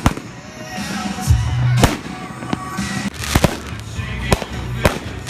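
Fireworks show: a string of sharp bangs from bursting fireworks, several close together in the middle and near the end, over music playing in the background.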